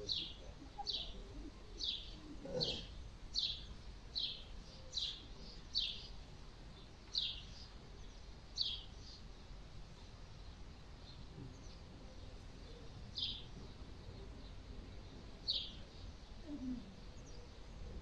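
A small bird chirping: short high single notes at about one a second, then two more, spaced further apart.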